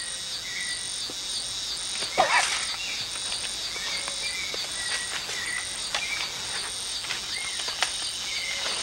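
Amazon rainforest ambience: insects calling in a steady pulsing chorus, with a bird repeating short chirps. A brief louder sound stands out about two seconds in.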